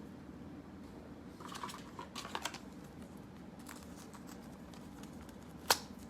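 Trading cards being handled: light clicking and rustling of card stock for about a second, a few faint ticks, then one sharp click near the end, over a steady low room hum.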